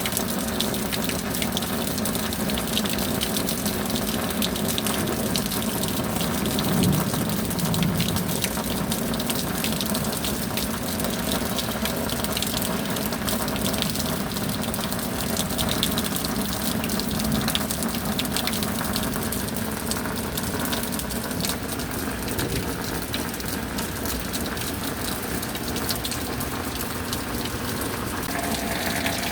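Steady rain falling: an even, unbroken hiss of water dotted with countless individual drop ticks.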